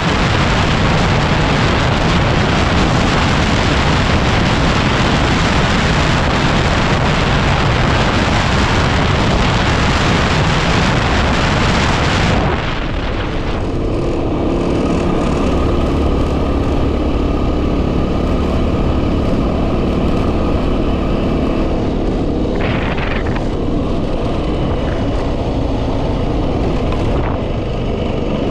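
Heavy wind buffeting on the microphone over a Yamaha WR250R's single-cylinder four-stroke engine running on a ride. About halfway through the wind noise drops away sharply, leaving the engine's steady note plainly heard.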